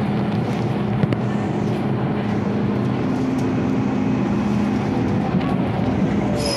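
MTR M-Train electric multiple unit running along the track: a steady rumble of wheels on rail under a low, steady hum from the running gear, which rises slightly in pitch about three seconds in. A single click about a second in.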